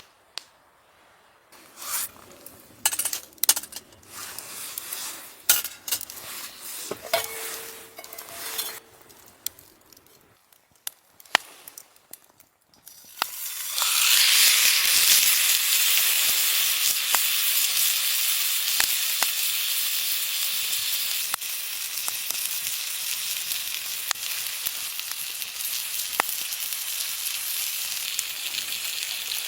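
Food frying in a hot pan: a steady sizzle with scattered crackles sets in suddenly about halfway through. Before it come irregular clicks and knocks of cookware being handled.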